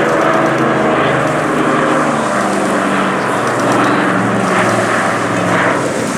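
Piston-engined propeller aircraft of a Dakota and Spitfire formation droning overhead: a steady, loud engine drone whose tones shift slightly in pitch as the formation passes.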